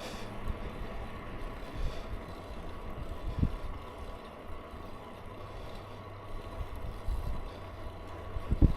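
Wind buffeting the microphone while cycling: a gusty low rumble, with a short thump about three seconds in and another near the end.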